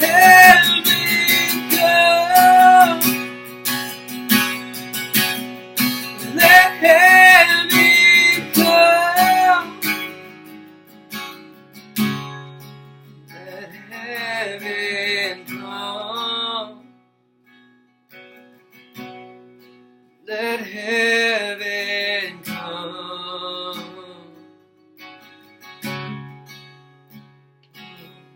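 Worship music: an acoustic guitar is strummed under a voice singing long, wavering phrases. The strumming is busy for about the first ten seconds, then thins out between the sung phrases.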